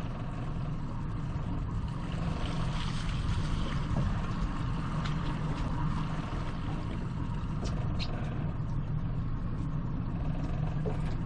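Fishing boat's motor running steadily at low trolling speed, a constant low rumble with water noise over it.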